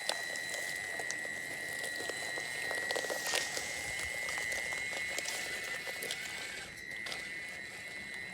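Small RC crawler's electric drive whining steadily at a high pitch, the pitch shifting slightly as the throttle changes, with scattered clicks and scrapes of the tyres and chassis on the climbing surface.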